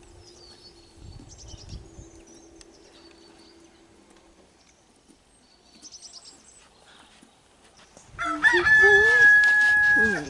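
A rooster crows once near the end with one long, loud, held call. Before it, small birds chirp faintly.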